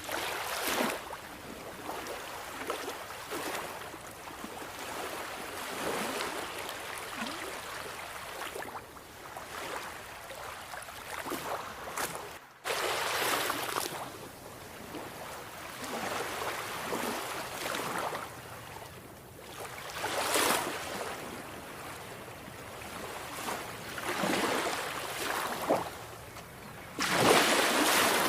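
Sea waves breaking and washing in, surging and easing every few seconds, with a brief break in the sound about halfway.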